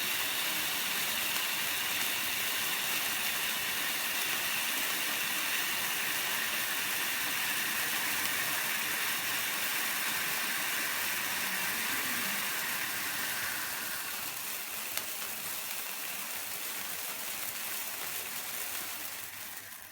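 Colored-flame party candle fountain fireworks burning with a steady spraying hiss. The higher part of the hiss drops away about two-thirds of the way through, and the whole sound dies out at the end as the fountains burn out.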